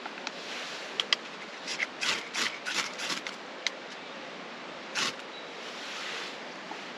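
Short scrapes, rustles and sharp clicks of hands working with kit while starting a small fire in a Bushbox wood-burning stove: a quick run of scrapes, then one louder scrape about five seconds in.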